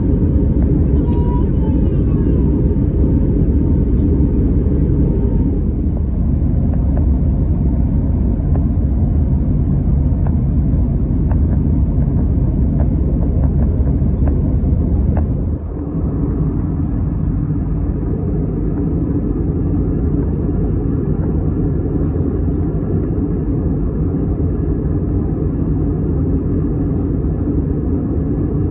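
Steady low rumble of an Airbus A321neo's CFM LEAP-1A engines and airflow, heard inside the cabin. About halfway through it drops suddenly to a slightly lower level and runs on steadily.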